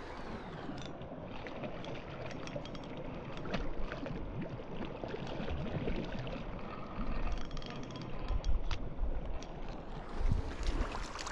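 Steady rush of a flowing creek, with wind buffeting the microphone in uneven low gusts and scattered small clicks.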